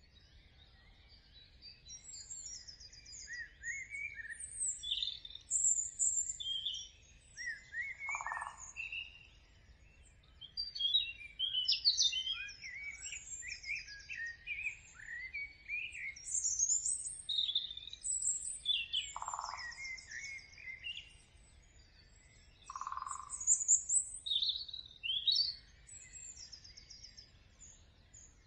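Several birds chirping and singing at once, a dense mix of short high chirps, trills and quick pitch glides, with three short lower calls scattered through it.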